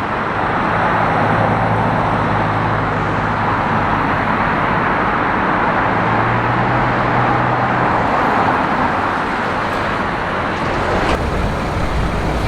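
Steady road traffic noise of passing cars, with a low engine hum that swells in and fades twice.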